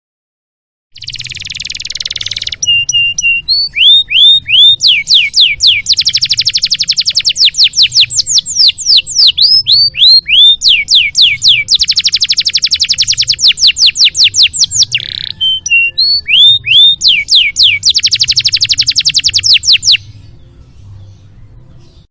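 Domestic canary singing: a harsh buzzy note about a second in, then fast rolling trills of repeated downward-sweeping notes broken by short groups of chirps. The song stops near the end.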